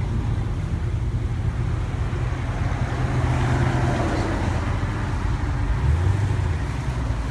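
A car engine running steadily at low revs, its low hum dipping in pitch about six seconds in and rising again near the end.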